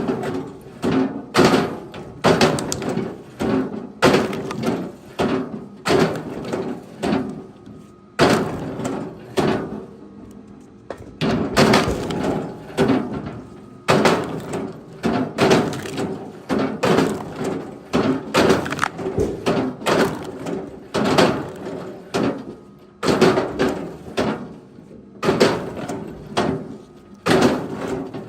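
Chunks of firewood being tossed onto a pile and knocking against each other, a run of sharp wooden thunks about one or two a second, with a short lull about eight to eleven seconds in.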